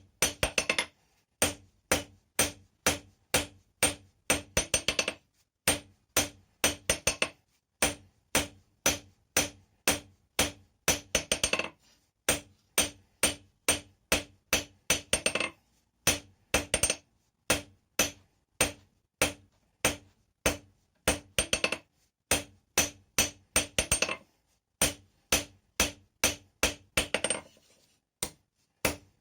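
Blacksmith's hammer striking hot rebar on an anvil, steady blows about two a second, each with a short metallic ring. Every few seconds comes a quick run of rapid blows.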